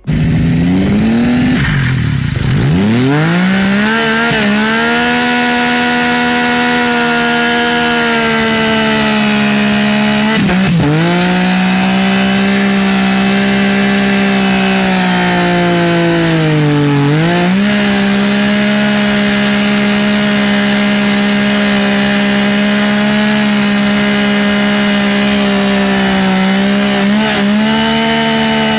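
Yamaha MT-09's three-cylinder engine running at high revs, loud and steady. The pitch climbs sharply in the first second and a half, falls back and rises again. It then holds a high steady pitch, dipping briefly and recovering about ten and again about seventeen seconds in.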